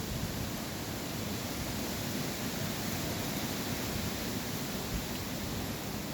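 Wind blowing steadily through forest trees, an even rushing noise with a low fluttering rumble underneath.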